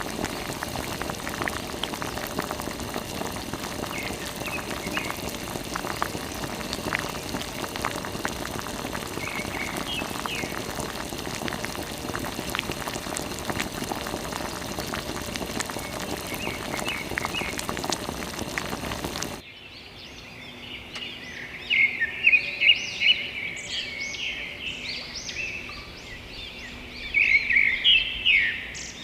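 A steady hiss of falling or spraying water with fine crackles, cut off abruptly about two-thirds through; then small birds chirping, with loud bursts of chirps twice near the end.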